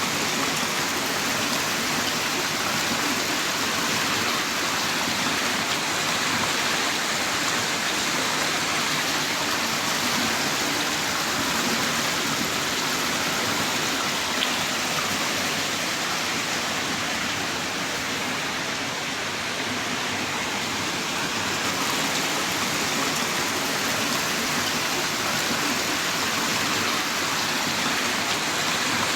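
Heavy rain pouring down in a steady, dense hiss of countless drops.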